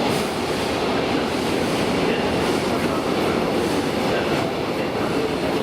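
JR West local train running on the rails, a steady rolling noise of wheels on track.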